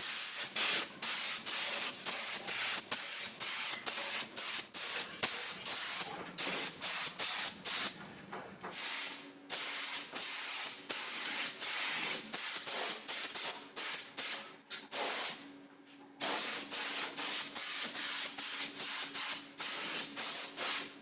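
Air-driven paint spray gun fed by a converted refrigerator compressor, hissing in a long series of short, rapid spurts, with two brief pauses in the middle. A faint steady hum sits under the hiss in the second half.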